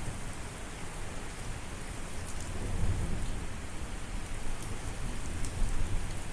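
Steady rain with scattered drop ticks, under a low rumble of thunder that swells about halfway through and again near the end.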